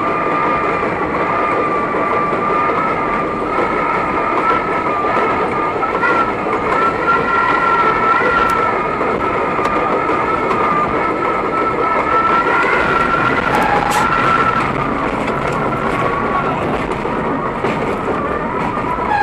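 R32 subway train running, with rumbling track noise under a steady, slightly wavering high whine. There are a few sharp clicks about two-thirds of the way through.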